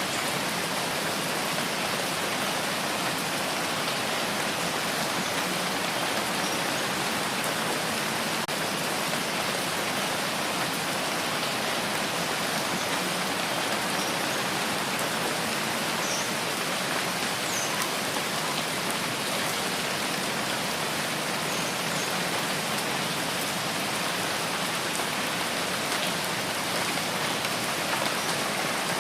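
Steady rain falling, an even hiss that holds the same level throughout, with a few faint drop ticks standing out now and then.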